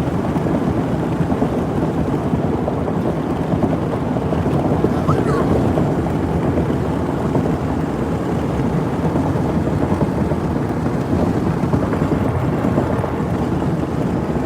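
Steady low rumble of vehicle road noise and wind noise, unbroken and without distinct events.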